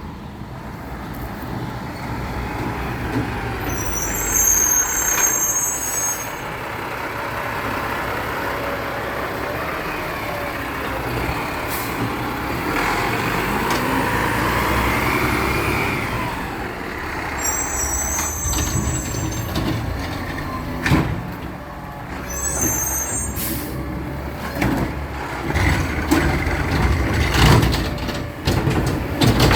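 Garbage truck engine running, with short air-brake hisses three times: a few seconds in, and twice more in the second half. A few sharp knocks are mixed in.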